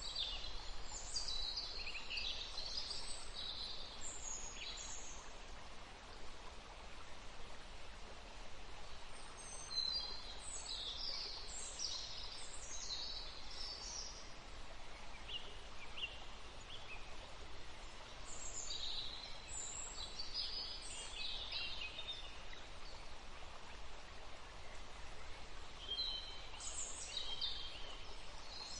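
Forest stream running steadily, with small birds singing in bursts of quick high chirps and trills every several seconds.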